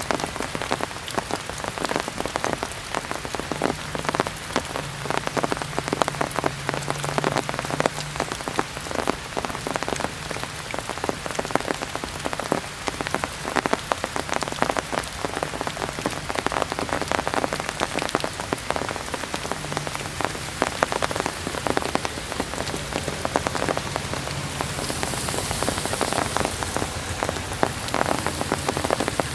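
Heavy rain falling steadily, a dense hiss of countless drops striking surfaces, with a faint low hum coming and going.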